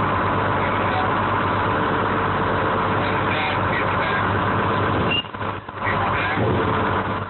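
1970 American 7510 crane's engine running steadily, heard from the operator's cab; the sound briefly drops away about five seconds in.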